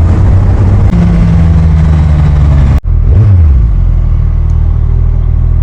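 Motorcycle engine running under way, heard through the rider's helmet microphone with some wind noise. There is a brief dropout about three seconds in, then the engine note falls and settles lower and steady.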